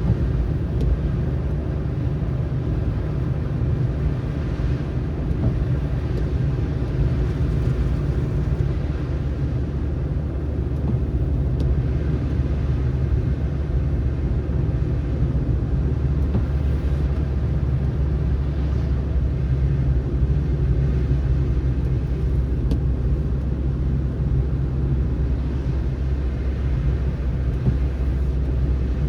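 A car driving on a snowy road: steady low rumble of tyre and road noise with engine hum, unchanging throughout.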